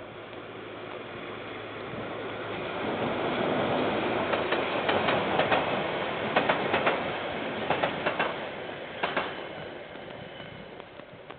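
Container freight train passing: a rumble that builds, then fades near the end, with clusters of sharp clacks from the wheels crossing rail joints through the middle.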